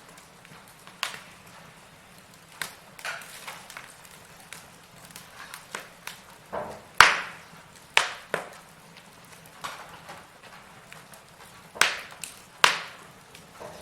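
Burning firewood crackling, with irregular sharp pops and snaps over a faint hiss. The loudest snaps come about halfway through and again near the end.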